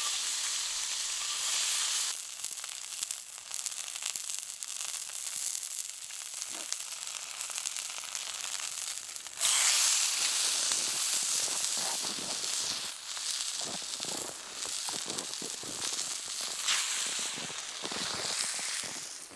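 Food sizzling and crackling as it fries in a pan. It drops suddenly about two seconds in and jumps louder about halfway through, with many small pops in the second half.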